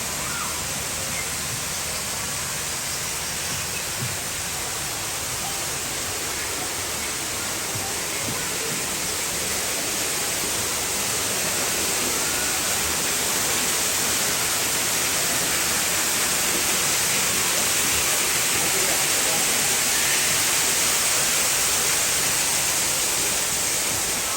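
Steady rush of falling water, as from an indoor rainforest waterfall, an even hiss that grows a little louder about halfway through.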